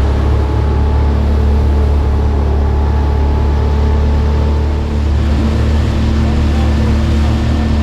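Small boat's outboard motor running at a steady speed under way, a low even drone.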